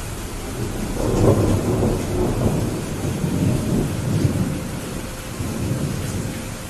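Steady rain with a rolling rumble of thunder that swells about a second in and slowly fades.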